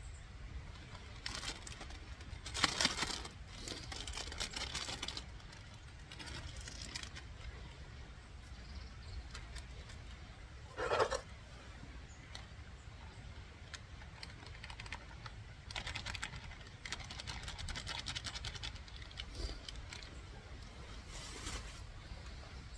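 Intermittent rustling and light clattering of gear being handled, in uneven bursts, with one short louder sound about eleven seconds in.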